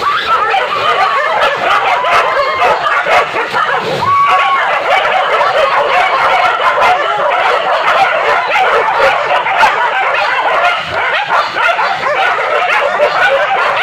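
A pack of hunting dogs yelping and barking together without a break, many voices overlapping in short rising and falling yelps.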